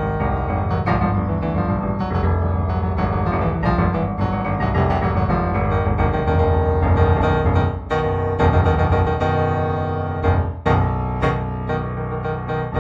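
Background piano music: improvised solo piano with sustained chords and repeated notes.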